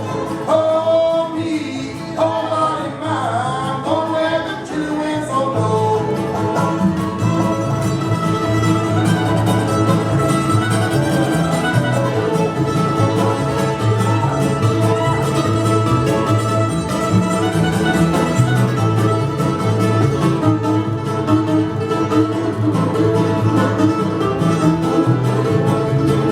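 Live string band music with fiddle: singing over a steady rhythm for the first five seconds or so, then the band plays on without the voice.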